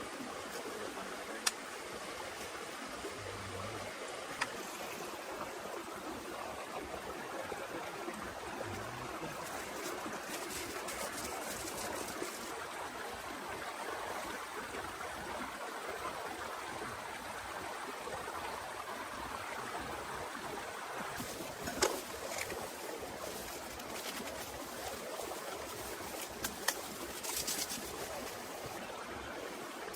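Steady hiss of heavy rain, with a few sharp taps now and then.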